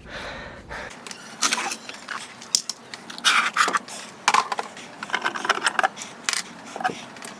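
Metal food cans clinking and knocking against each other and the shelf as they are handled and moved, with irregular knocks and brief ringing clinks and some scraping.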